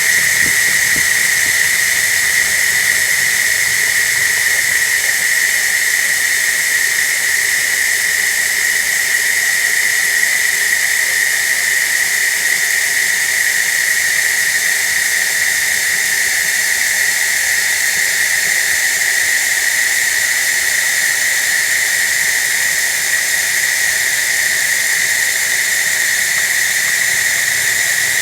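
Water sound altered by a voice-changer effect: a loud, steady hiss with a constant high whistling tone running through it.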